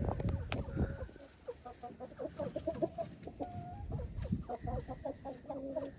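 Backyard hens clucking softly, a run of short low calls with brief pauses as they settle on the roost at night.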